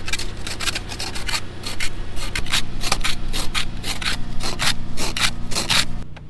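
Snow and ice being scraped off a vehicle's windows in quick, irregular strokes, about four a second, over the steady hum of the idling engine. The scraping stops abruptly near the end while the engine hum goes on.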